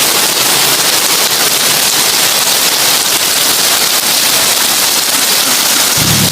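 Heavy rain on a tin roof: a dense, steady crackling patter. Near the end a low droning hum starts underneath.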